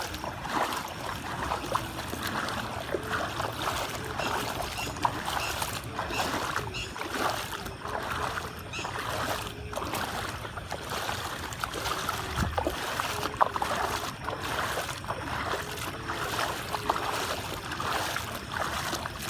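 Fast-flowing water, a steady rush and splash.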